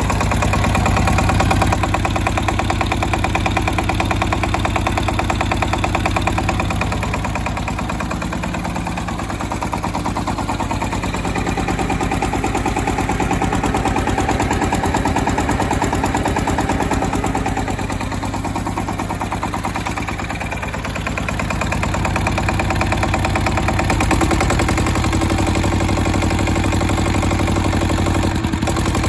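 SD1110 engine driving a generator, running steadily under load with an even firing beat. Its loudness eases slightly twice, about a third and two-thirds of the way through.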